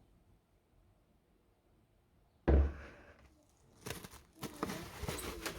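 A single loud knock or thump about halfway through, then irregular rustling and clattering, like objects being handled.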